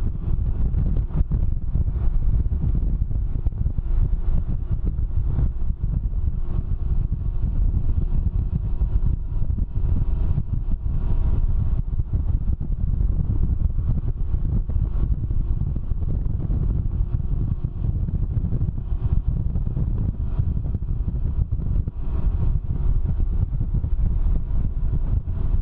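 Wind buffeting the microphone on a Can-Am Ryker three-wheeler riding at speed, with the engine's steady drone underneath.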